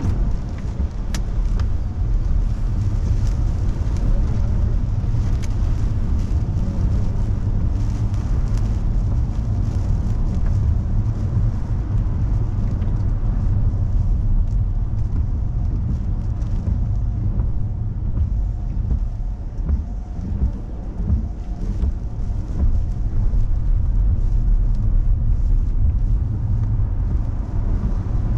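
Steady low rumble of a car driving, road and wind noise heard from inside the car, with a few faint clicks on top.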